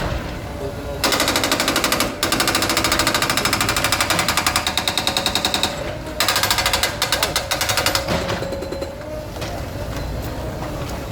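A demolition breaker hammering concrete in rapid, evenly spaced blows: a long burst about a second in, then a second burst after a short pause, over the steady hum of machinery.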